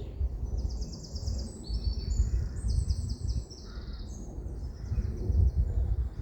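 Small songbirds singing high, rapid trilled phrases that overlap for a few seconds and then stop, over a steady low rumble of wind.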